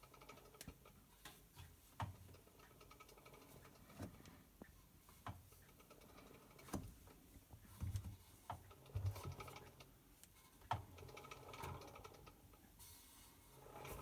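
Hotpoint BHWMD732 washing machine drum turning over a low motor hum, with a sharp click about every one to one and a half seconds. The click is an unexplained fault in a machine under a year old, with nothing found stuck in the drum.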